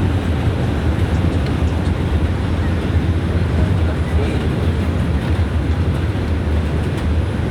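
R142 subway car running along the track, heard from inside the car: a steady loud rumble of wheels on rail and running gear, with a strong low hum underneath.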